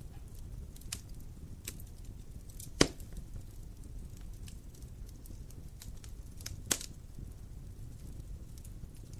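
Wood fire burning, with a low steady rumble, scattered small crackles and two loud pops about three seconds in and near seven seconds in.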